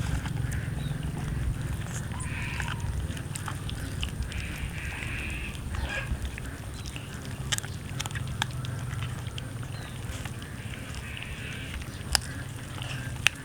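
Cats eating roast chicken: wet chewing and smacking with a few sharp cracks, over a low steady rumble. The loudest cracks come a little past halfway and near the end.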